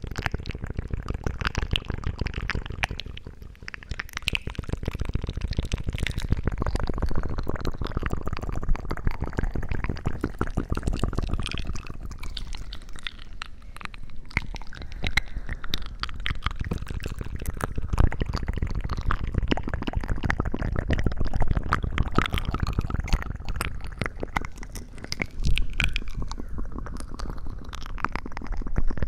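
Close-miked, wet squishing and crackling ASMR sounds, dense and continuous, with a low rumble under many small clicks.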